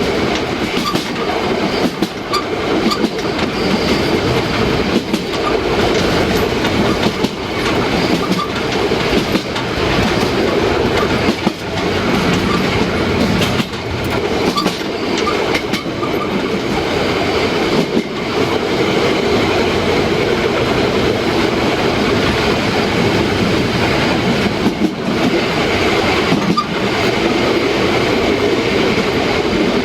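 Narrow-gauge steam train running steadily along the track, its wheels clicking over rail joints every second or two.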